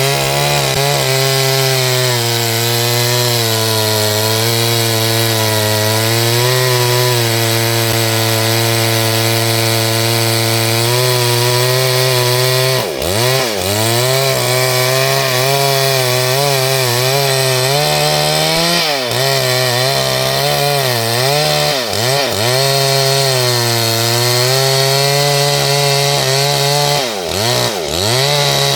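STIHL 72cc two-stroke chainsaw running at high revs while cutting wood. From about halfway through, its pitch drops sharply and swings back up several times.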